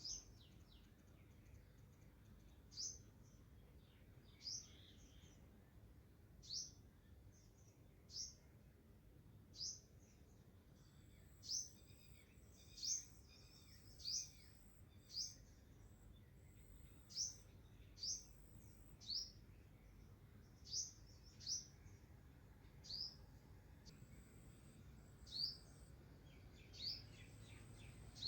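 A bird chirping over and over, each chirp a short high note sliding down in pitch, about one a second, over a faint background hiss.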